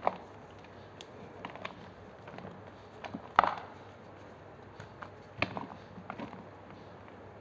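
Reformed blocks of gym chalk being crushed: a few scattered sharp crunches and cracks as pieces break and crumble, the loudest about three and a half seconds in.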